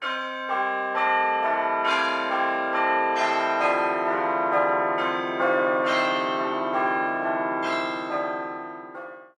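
Several bells struck one after another, about two strikes a second, their ringing tones overlapping and building up; the sound cuts off abruptly near the end.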